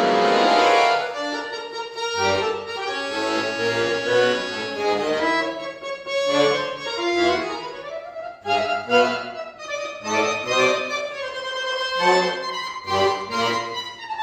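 Solo accordion playing a slow piece: a loud held chord swells over the first second, then a melody moves over low bass notes and chords.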